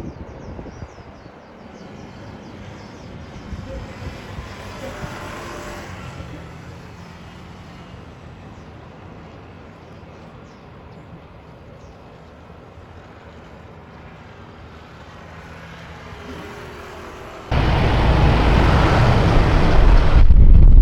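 Airliner engine noise at an airport, a moderate steady rush with a faint hum. About seventeen seconds in it is abruptly overtaken by a much louder rushing noise with a heavy low rumble.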